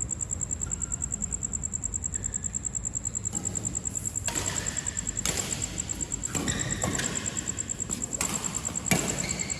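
Insects chirping in a fast, even, high-pitched pulse. From about halfway on there are stretches of noise and a few sharp knocks.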